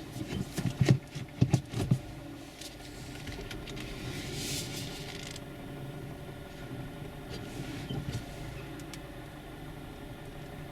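Mazda CX-3 idling, heard from inside the cabin, with a quick cluster of dull knocks in the first two seconds from the front suspension as the car manoeuvres at full steering lock. The owner suspects the front coil springs knocking.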